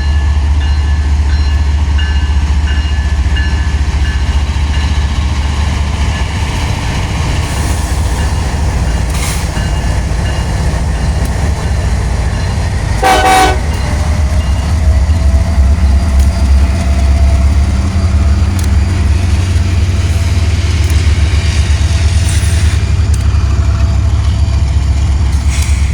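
A train running past with a loud, steady low rumble, and one short horn toot about halfway through.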